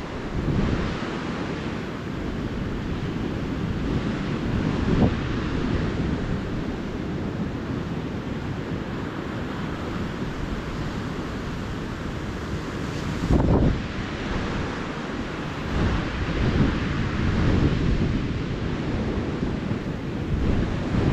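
Ocean surf washing steadily onto a beach, with wind buffeting the microphone in two brief low rumbles, about five seconds in and again past the middle.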